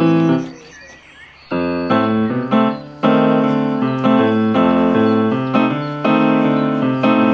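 Piano playing chords and a melody line. It breaks off about half a second in and resumes about a second later, with a brief pause again near three seconds.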